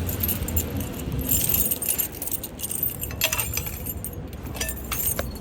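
Keys jangling: a run of irregular light metallic clinks and rattles, over a low background rumble.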